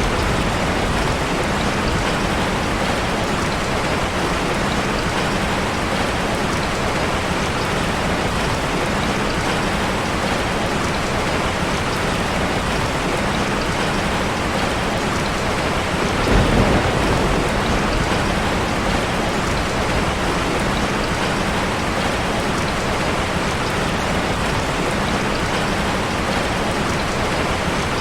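Waterfall rushing steadily: a dense, even roar of falling water, with a brief low rumbling swell about sixteen seconds in.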